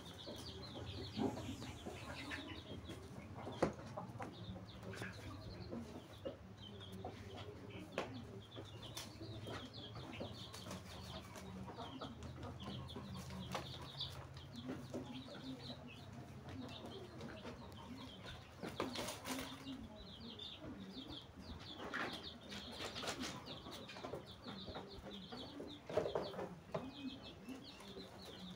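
Birds chirping over and over in short high calls, with some low clucking.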